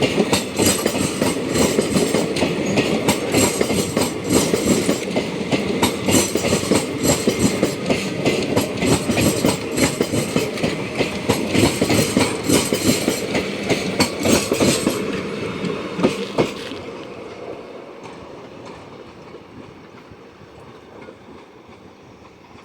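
A train passing close by, its wheels clattering rapidly over the rail joints. About sixteen seconds in the clatter ends abruptly as the last vehicle goes past, and the sound falls away to a fading rumble.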